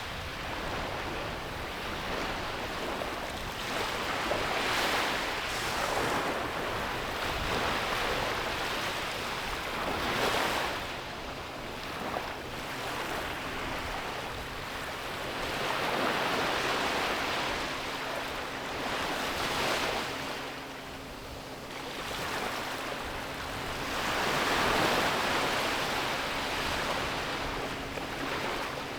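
Ocean waves breaking on a beach, the surf swelling and washing up every few seconds. A faint steady low hum joins in about ten seconds in.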